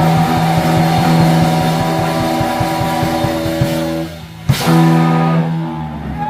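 Live rock band ending a song: an amplified guitar chord held over rapid drum hits, a short drop, then one loud final hit about four and a half seconds in with the chord ringing on after it.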